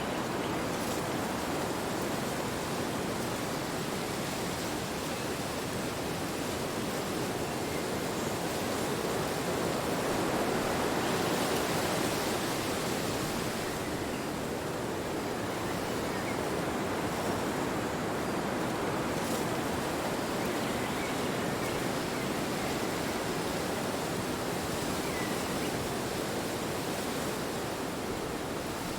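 Wind blowing steadily, swelling a little about ten seconds in.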